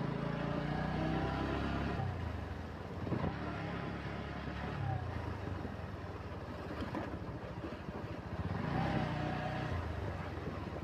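Motorcycle engine running on the move, its pitch climbing as it picks up speed just before the start and again near the end.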